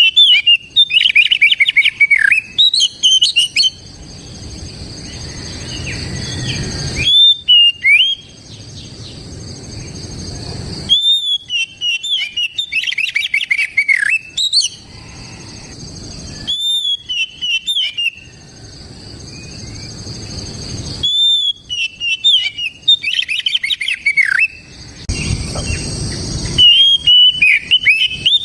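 Oriental magpie-robin (kacer) singing loudly in repeated phrases: each opens with a clear high whistle and runs into fast, varied chattering notes, a new phrase every four to five seconds. A low background noise fills the gaps between phrases.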